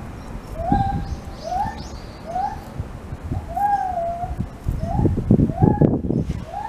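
A bird calling over and over with short whistled notes that slide up and then hold, one or two a second. Low rumbling bumps run underneath, loudest about five to six seconds in.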